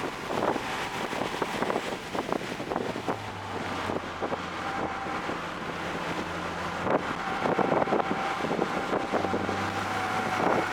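Toyota GR Corolla's turbocharged three-cylinder engine running at speed on track, its low note holding steady for a couple of seconds at a time. Heavy wind buffeting on the microphone and frequent short knocks run throughout.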